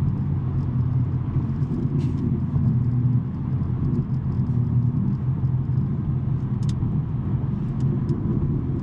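BMW M3 G80's twin-turbo inline-six with a non-resonated SuperSprint mid pipe, droning steadily at an even cruise with no revving. A few faint ticks of interior rattle come through.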